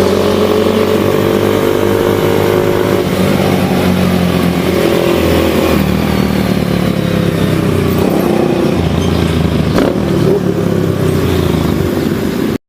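Small single-cylinder motorcycle engine running under way, typical of a Kawasaki Z125 Pro mini bike, its pitch rising and falling with the throttle. It cuts off suddenly near the end.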